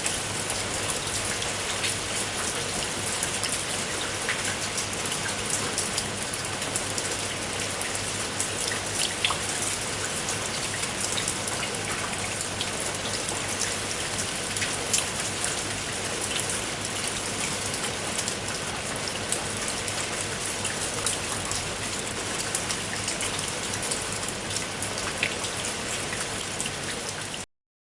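Steady rain falling, with many separate raindrop ticks over an even hiss. It stops abruptly near the end.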